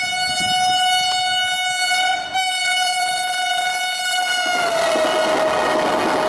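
A train sounding one long, single-pitched horn. About four and a half seconds in, the horn's pitch drops and the rushing noise of the passing train swells up.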